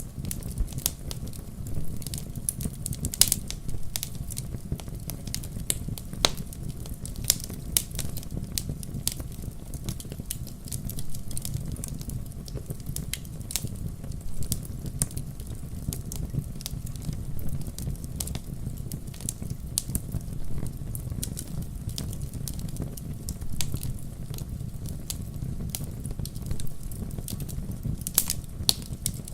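Fire in a fireplace crackling: frequent, irregular sharp pops and snaps over a steady low rush of the flames.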